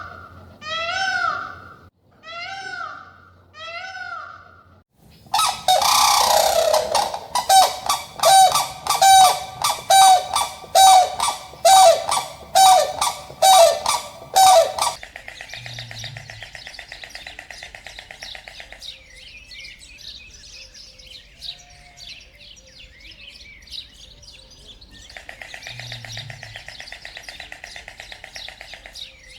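Animal calls: a few short pitched calls about a second apart, then a loud run of rapid repeated calls, just under two a second, lasting about ten seconds, then birds chirping over a steady buzz.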